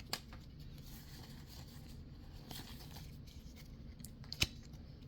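Quiet handling of Pokémon trading cards and foil booster-pack wrappers: faint rustling with a few soft clicks and a sharper tap about four and a half seconds in.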